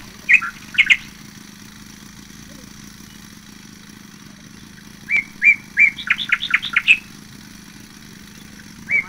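A songbird singing: a couple of short chirps just after the start, then about five seconds in a phrase of three even notes leading into a quick run of higher notes. A faint steady low hum runs underneath.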